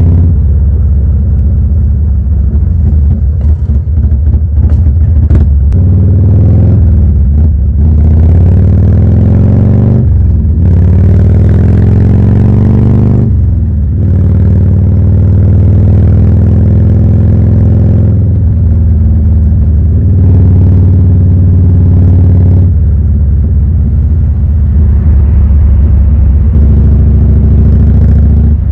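Harley-Davidson Evolution 1340 air-cooled V-twin running under way, rising in pitch twice as it accelerates, with a drop after each rise, then running steadily.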